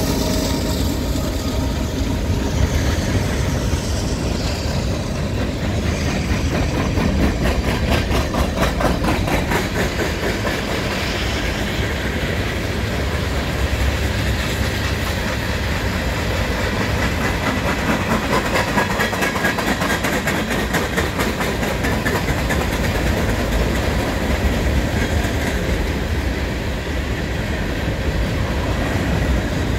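Freight cars of a long mixed freight, coil cars and covered hoppers, rolling past: a steady rumble of steel wheels on rail with rhythmic clicking, most distinct between about seven and twelve seconds in.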